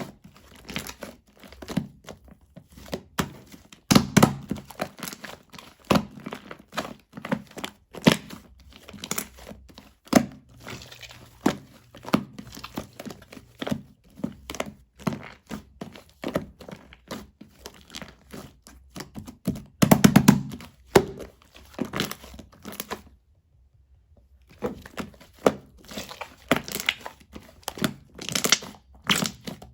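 Hands squishing, pressing and stretching clear slime mixed with shaving foam: irregular sticky crackles, pops and squelches as trapped air pockets burst. The sound stops briefly about three-quarters of the way through.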